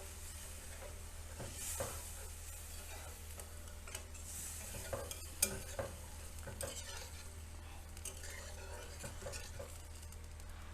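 A spatula stirring spiced masala in a kadai, knocking against the pan now and then, over a faint sizzle as water is added to the fried masala to make a light gravy.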